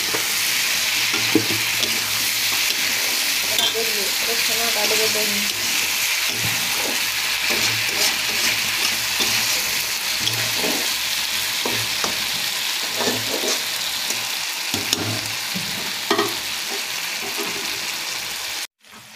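Potato cubes and capsicum sizzling in hot spiced oil in a kadai while a metal spatula stirs and scrapes them: the slow sauté (kosha) stage of a Bengali potato curry. A steady frying hiss with repeated scraping strokes, cut off suddenly near the end.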